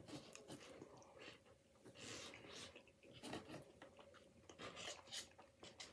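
Faint close-up chewing of a mouthful of poutine fries, a few soft irregular mouth sounds.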